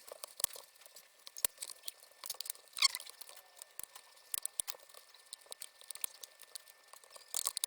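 Faint scattered clicks and rustling as a motorcycle helmet's washed liner pads and plastic fittings are handled, with a short squeak about three seconds in.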